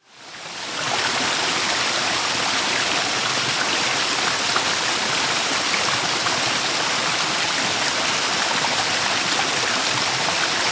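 Steady rush of flowing water from a forest creek, Four Mile Creek, fading in over about the first second.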